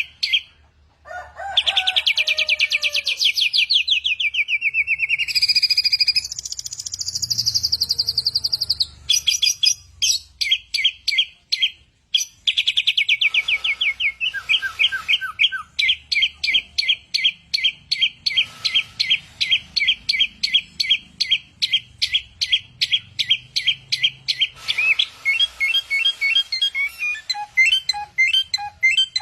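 A samyong songbird singing a long, varied song of rapid repeated chirps and trills. Sliding whistles come in the first few seconds, and fast, evenly spaced runs of notes follow, the last of them ringing like an alarm clock.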